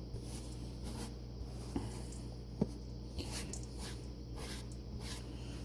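Faint kitchen handling noises: light rustles and small clicks, with one sharper click about two and a half seconds in, over a low steady hum.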